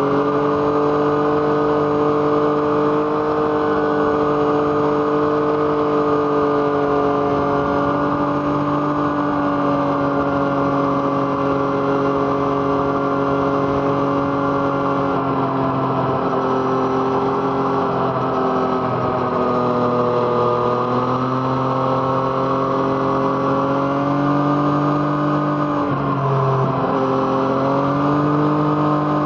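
Yamaha MT-09's 847 cc three-cylinder engine through an Arrow Thunder exhaust, running at a steady cruise. The engine note falls and climbs again about two-thirds of the way through, then dips briefly and picks back up near the end as the rider rolls off and back on the throttle.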